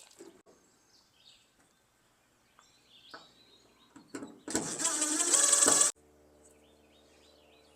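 A power drill runs for about a second and a half, starting about four and a half seconds in, most likely backing out screws to remove a part from the truck bed. Faint bird chirps are heard around it, and a steady low hum follows.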